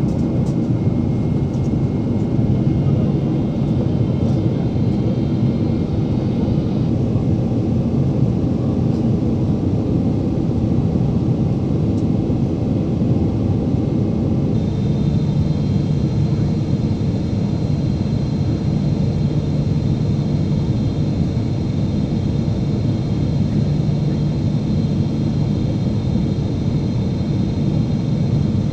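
Steady cabin roar of a Boeing 777-300ER on approach: its GE90 jet engines and the airflow around the fuselage. A thin high whine comes in about halfway through.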